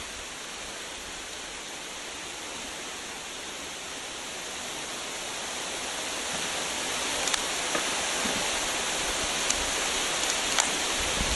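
A steady hiss that slowly grows louder, with a few sharp crackles in the second half.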